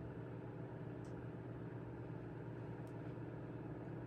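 Steady low mechanical hum with a background hiss, with two faint short ticks about a second and about three seconds in.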